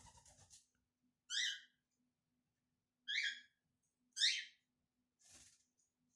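A 17-day-old cockatiel chick calling: three short, loud calls, the first near the start and the other two close together later on. Softer hissy noise comes at the start and again near the end.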